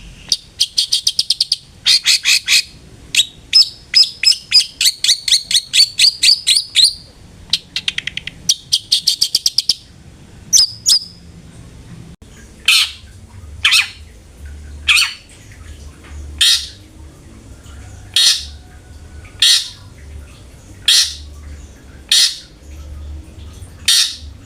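Long-tailed shrike calling: fast chattering trills of repeated sharp notes for about the first ten seconds, then a string of about nine harsh single calls, roughly one every second and a half.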